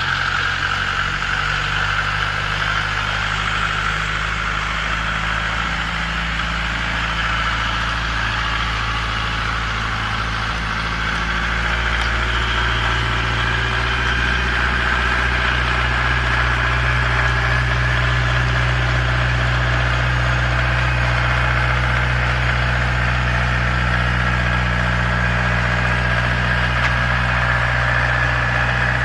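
Engine of a small 3-ton tracked crawler dumper running steadily, a low drone with a high whine over it that gets a little louder about halfway through.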